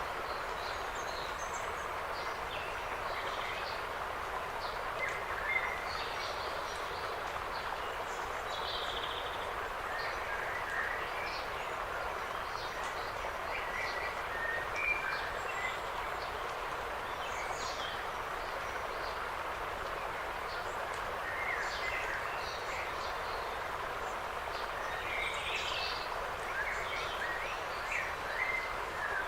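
Forest ambience: small birds chirping and calling in short, scattered notes over a steady, even hiss.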